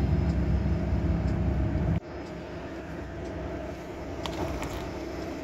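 Car driving, a steady rumble of engine and road noise: loud and deep for the first two seconds, then dropping abruptly to a quieter steady hum with a few faint ticks.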